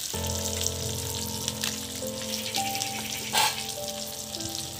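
Chicken frying in butter in a pan, a steady sizzle with fine crackles, with a brief louder hiss about three and a half seconds in. Soft background music of held notes plays underneath.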